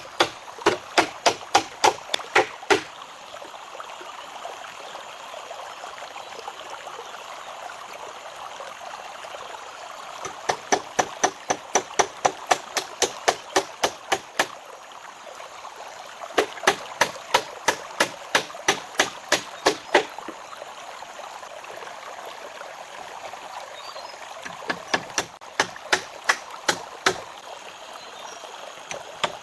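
Runs of quick, evenly spaced tool strikes on wood, about four a second, stopping and starting again several times, over the steady rush of a stream.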